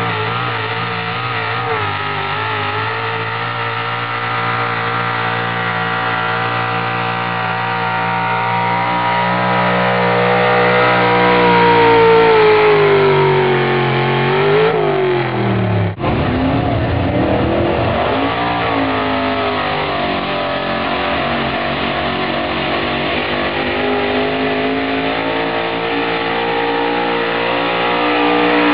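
Altered-stock pulling truck engine at high revs under heavy load, dragging a pulling sled. Its pitch sags over several seconds as the load builds. About halfway through the sound breaks off suddenly, then an engine picks up again with rising pitch and holds high revs.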